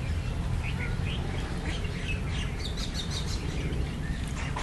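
Small birds chirping: many short, high chirps, with a quick run of rapid notes around the middle, over a steady low rumble.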